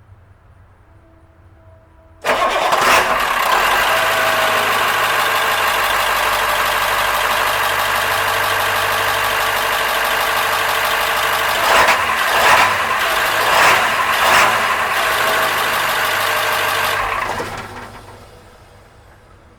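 Navistar T444E 7.3-litre turbo V8 diesel in an AmTran RE school bus starting abruptly about two seconds in and running loudly, heard from the engine bay. Several brief surges come a little past the middle, then it shuts off and dies away near the end.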